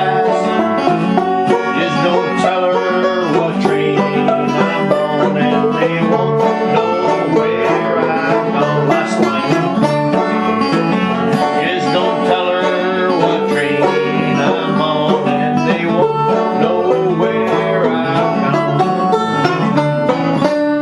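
Acoustic plucked string instruments playing a lively fingerpicked folk tune, steady and unbroken.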